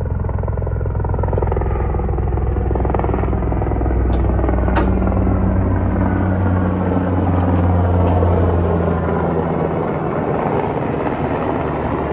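Helicopter rotor chop and turbine drone, steady and loud, swelling to its loudest about two-thirds through and easing slightly near the end as the helicopter flies past.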